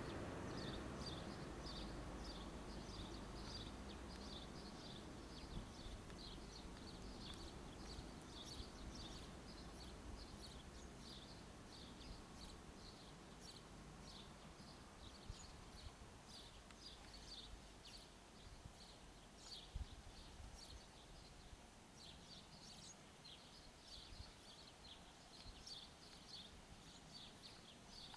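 ÖBB Cityjet electric train pulling away, its faint low rumble fading over the first several seconds as it recedes. Quick high chirps repeat throughout, like small birds.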